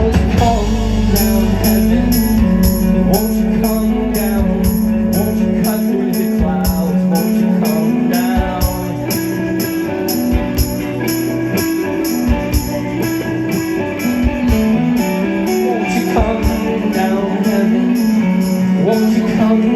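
Live rock band playing an instrumental passage: sustained electric guitar notes over a steady jingling beat, like a tambourine, about twice a second. The deep bass falls away about six seconds in.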